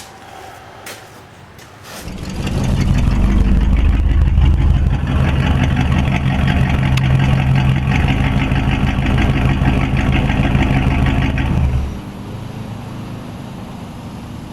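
An engine or motor starts about two seconds in, runs steadily at a low, even pitch for about ten seconds, then cuts off abruptly, leaving a quieter hum.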